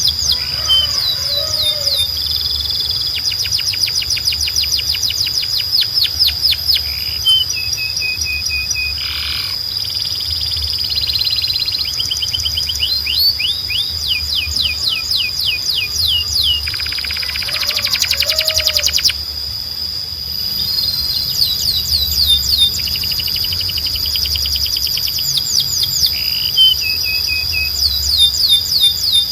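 Domestic canary singing: fast trills of rapidly repeated notes and runs of downward-sweeping whistles, with a steady high tone held underneath.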